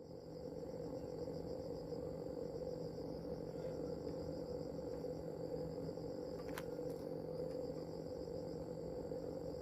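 Steady, fast-pulsing chirring of insects such as crickets, with a faint click about six and a half seconds in.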